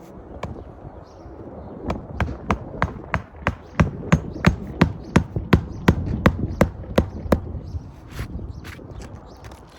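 A hammer driving roofing nails through asphalt shingles: a steady run of sharp strikes, about three a second, starting about two seconds in and stopping after about five seconds, with a few softer knocks after it.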